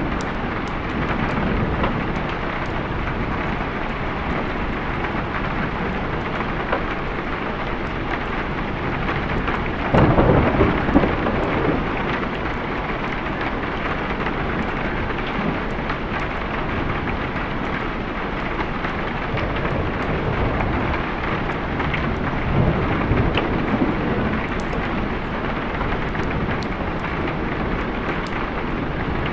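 Steady rain with rolling thunder: a louder rumble about ten seconds in and a weaker one a little past twenty seconds.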